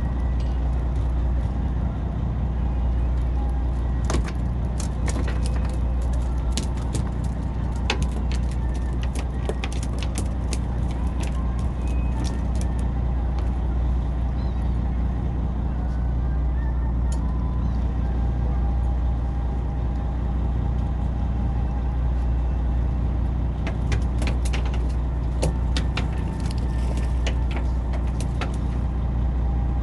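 A fishing boat's engine running steadily at a constant low hum. Two spells of sharp clicks and clatters lie over it, one in the first half and one near the end.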